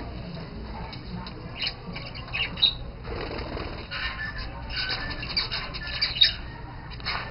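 Budgerigars chattering with quick chirps and squawks, with a flutter of wings about three seconds in.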